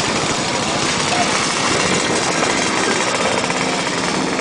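Engines of vintage motorcycles running in a slow procession, a steady, pulsing engine sound.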